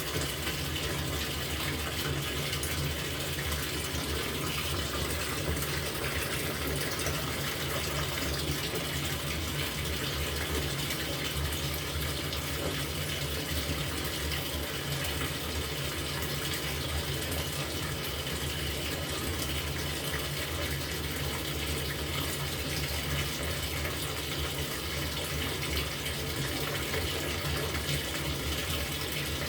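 LG top-loading washing machine filling its drum with water, a steady gushing rush of water from the inlet with a low machine hum underneath.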